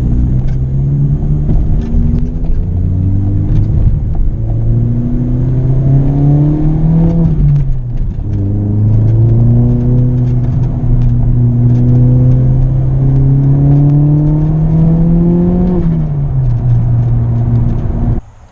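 Car engine pulling away and accelerating, its pitch rising. There is a gear change about eight seconds in, then a long slow climb, and the revs fall again near the end.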